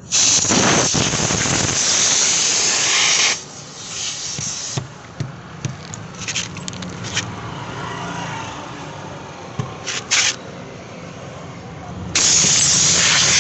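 Loud hiss of pressurised air lasting about three seconds, which cuts off and starts again near the end. Short clicks and brief spurts of hiss come in between, typical of tyre puncture repair work.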